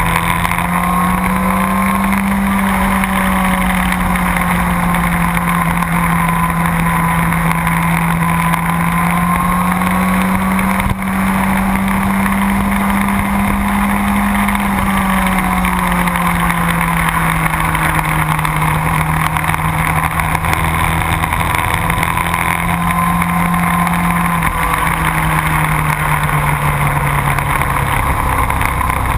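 Motorcycle engine running steadily at speed on a race track. Its pitch rises and falls gently with the throttle and steps down about 24 seconds in. Wind rushes over the microphone.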